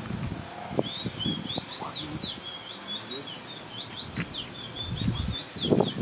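A songbird chirping over and over, short high notes about five a second, over scattered soft low knocks and rustling that grow louder near the end.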